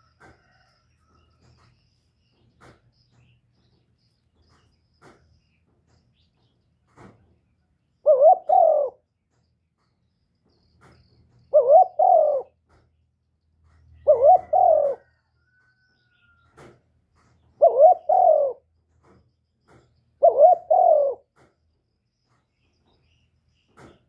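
Male spotted dove cooing: five loud phrases of about a second each, roughly every three seconds, starting about eight seconds in, with faint ticks in the gaps.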